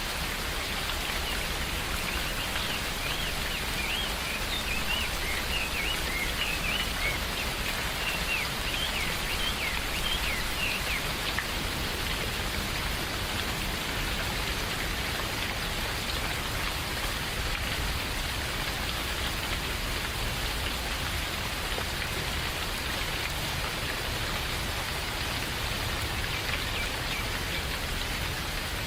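Steady rain falling, with a bird calling in quick, high chirps for several seconds near the start and briefly again near the end.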